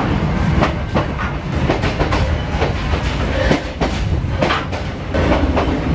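Passenger train running, heard from inside the carriage: a steady rumble of wheels on the rails with irregular clacks and rattles.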